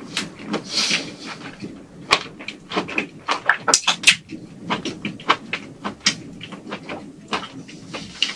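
Close-miked eating of shrimp: chewing and mouth sounds made up of quick, irregular clicks, crunches and wet smacks.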